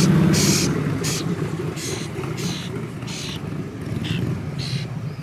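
A motor vehicle running close by, its engine noise gradually fading.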